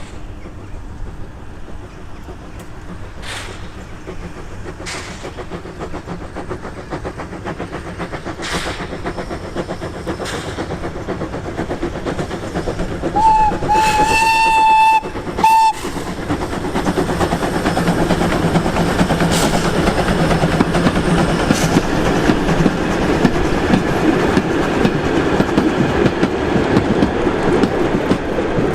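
A steam locomotive running on the rails, its rumble growing louder as it comes closer, with sharp clicks early on. About thirteen seconds in, its whistle sounds one steady blast of about two seconds, then a short one.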